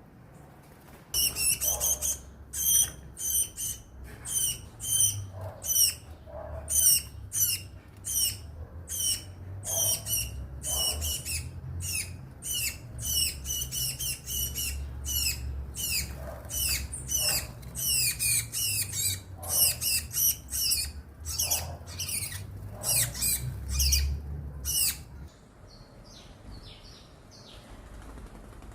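A bird calling over and over, a rapid series of short, high, sharp notes at about two a second, stopping about 25 seconds in, then a few fainter notes. A low rumble runs underneath.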